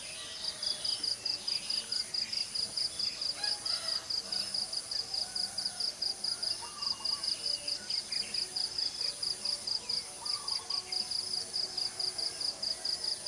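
Insects chirping in a fast, even, high-pitched pulse, with scattered bird calls over it.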